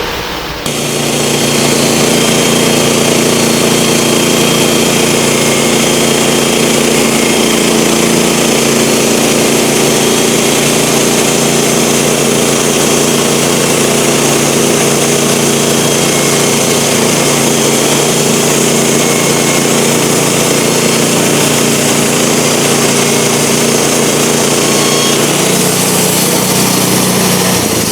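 Sawmill running and sawing a 1-inch board off a 10-inch wooden cant, a loud, steady motor-and-blade sound that sets in about half a second in. The tone shifts slightly near the end.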